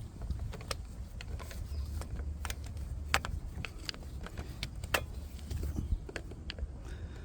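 Scattered light metallic clicks and clinks from a spanner and metal parts being handled, a few of them sharper, over a steady low rumble.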